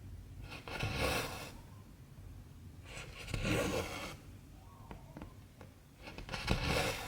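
Cotton embroidery thread pulled through 14-count cross-stitch fabric: three pulls about three seconds apart, each lasting about a second, with faint needle ticks in between.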